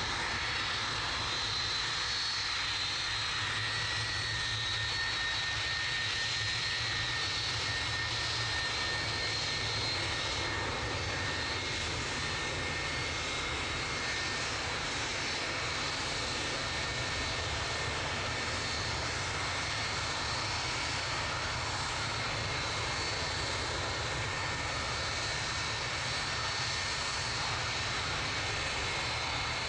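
Jet aircraft engines running steadily, a constant high whine over a low rumble, with no build-up of power.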